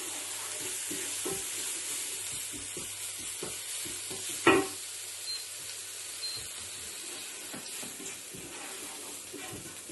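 Mustard, fennel, cumin and coriander seeds and ginger sizzling in hot ghee while a spoon stirs them round the pan, with frequent short scrapes and one louder knock about halfway through. This is the spice tempering being browned until it smells fragrant.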